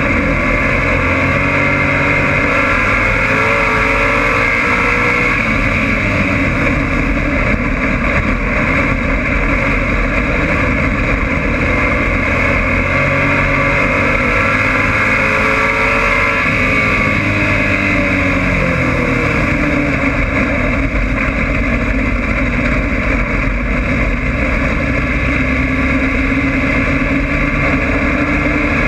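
Race car engine heard from inside the car, running hard throughout, its revs rising and falling again and again as it goes through the turns of a dirt oval.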